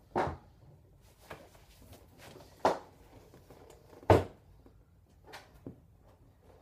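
Knocks and clunks of hard objects being handled: three louder clunks, each a little over a second apart, with a few lighter clicks between them.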